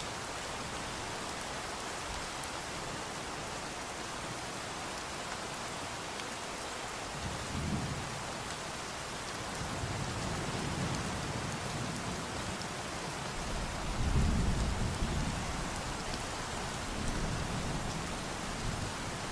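Steady rain falling, with low thunder rolling in several times; the loudest roll comes about two-thirds of the way through.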